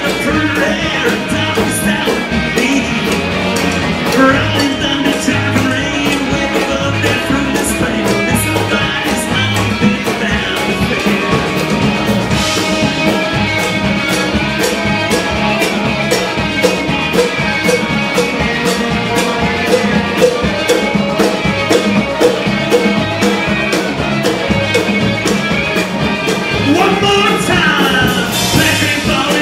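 Live band playing an up-tempo rock song with guitar and a steady, fast drum beat, with cymbal crashes about twelve seconds in and again near the end.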